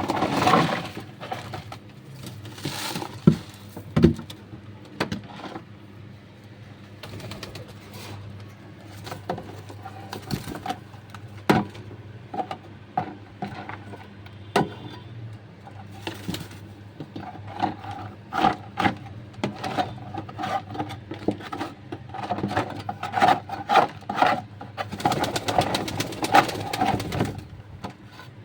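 Domestic pigeons cooing in a small room, repeated low notes strongest in the second half, with scattered clicks and knocks.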